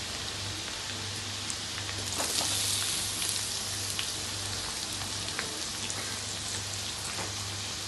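Chopped garlic sizzling in hot mustard oil in a wok: a steady hiss with small crackles. The sizzle grows louder and brighter about two seconds in, as onion wedges go into the hot oil.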